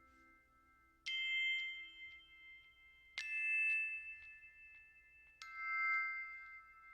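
Background music: three bell-like struck notes about two seconds apart, each ringing on after its strike.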